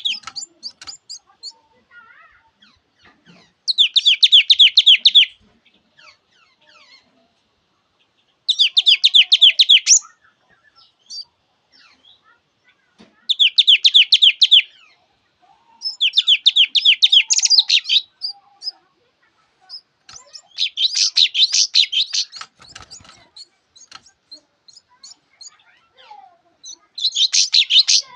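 Thanh tước songbird singing: six rapid trilled phrases of repeated high notes, each lasting about one and a half to two seconds and a few seconds apart, with soft chirps in between.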